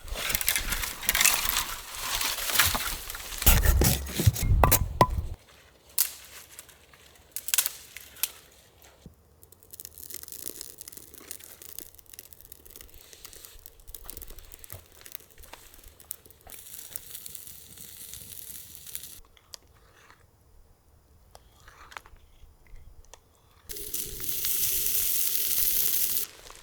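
Dry dead wood being snapped and broken up for firewood: a few seconds of loud cracking, splintering and crunching with heavy thuds, then single sharp cracks and quieter rustling. A steady hiss runs for a couple of seconds near the end.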